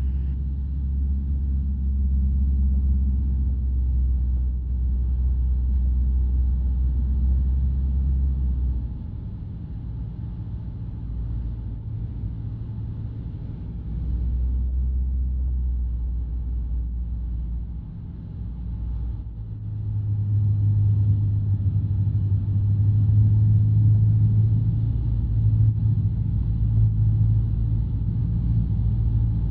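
Van's RV-12 light aircraft's engine and propeller drone heard from inside the cockpit. The drone drops in level about nine seconds in, comes back about five seconds later, dips again near eighteen seconds, then runs louder at a higher note, as power is changed while joining the circuit.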